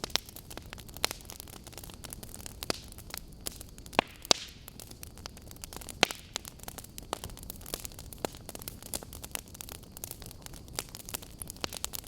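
Burning logs crackling: irregular sharp pops and snaps, the loudest about four and six seconds in, over a low steady rush of the fire.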